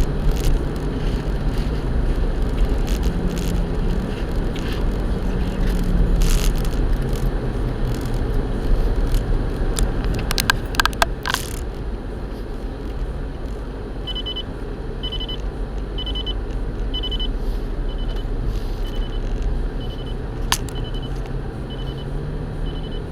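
Motor vehicle running with a heavy low rumble, a few sharp clicks about halfway through. Then a steady series of short high beeps starts, about one a second.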